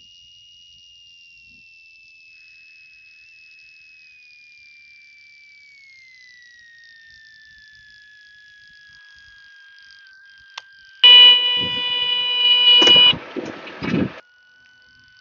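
Light-aircraft cabin audio: a thin steady engine whine that slowly falls in pitch. About eleven seconds in, a loud buzzing tone lasts about two seconds, followed by a second of crackly bursts.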